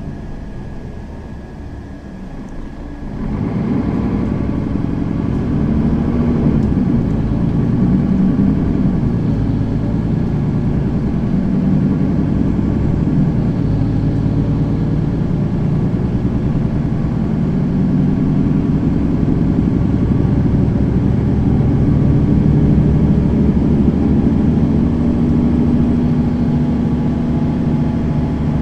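Mercedes-Benz Citaro facelift city bus engine running quietly, then about three seconds in getting louder as the bus pulls away, and running steadily under load as it drives on.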